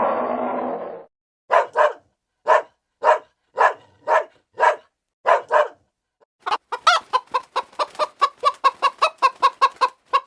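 A chicken clucking: about nine separate clucks spaced roughly half a second apart, then from about six and a half seconds a fast run of clucks, several a second. A loud rough sound carried over from before ends about a second in.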